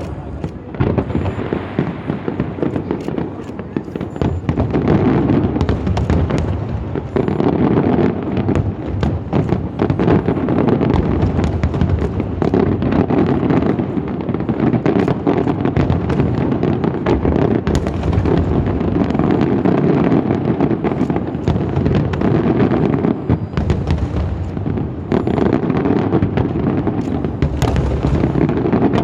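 Large aerial fireworks display: a dense, continuous volley of shells launching and bursting in quick succession, with sharp cracks over a steady rumble.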